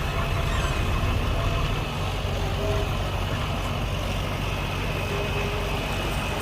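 Heavy diesel earthmoving machinery running steadily at low revs, a deep engine drone with a faint steady whine above it.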